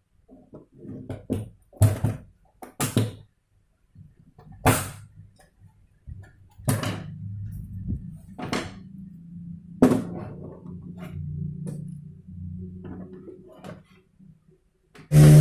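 Sharp knocks and clicks of plastic projector casing parts and tools being handled as the projector is taken apart. A low steady hum comes in about halfway through.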